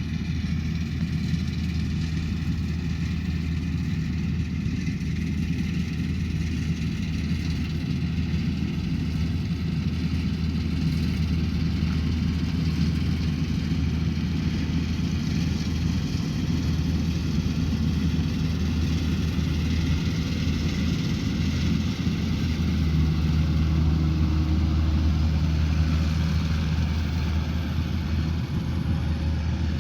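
Rice combine harvester running steadily under working load: an even engine drone with a hiss of machinery above it.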